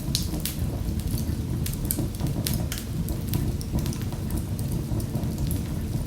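Wood fire crackling: frequent sharp, irregular pops and snaps over a steady low rumble of the burning fire.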